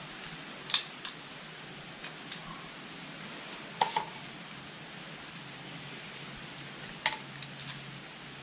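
Small hard objects handled on a workbench: three sharp clicks or knocks a few seconds apart, with fainter ticks between them, over a steady hiss.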